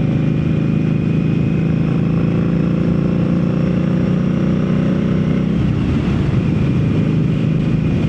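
Indian Scout Rogue's V-twin running through a Jekill and Hyde exhaust while riding, a steady engine note that changes and turns rougher about five and a half seconds in.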